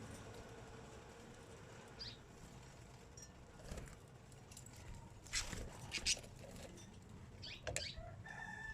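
Birds giving a few short, sharp chirps spaced a second or more apart. Near the end a rooster starts a long, held crow.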